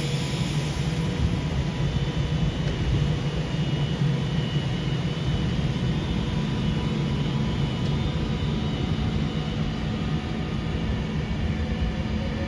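A train running close by, making a steady low drone of engine and rolling noise with a faint steady whine above it, unchanging throughout.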